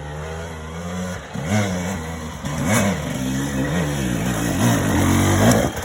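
Dirt bike engine working up a steep hill climb: a steady note for about a second, then the revs rising and falling again and again as the throttle is worked.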